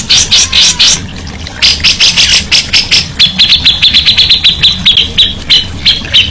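Songbird singing: a run of harsh, scratchy notes, then from about three seconds in a fast trill of short high notes, about eight a second, falling slightly in pitch.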